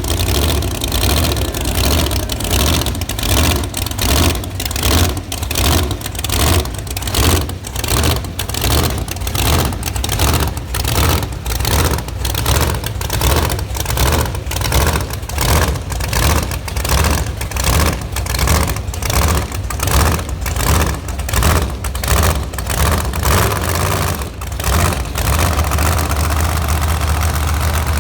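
Monster truck engine running with a deep rumble, its throttle blipped over and over in a steady rhythm of about one to two revs a second; about three seconds before the end the revving stops and it settles into steady running.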